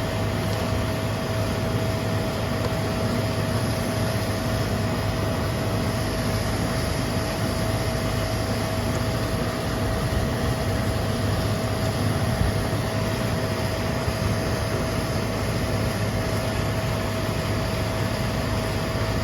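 Air-conditioning fan running steadily: an even rush of air over a low hum, with a thin steady whine above it.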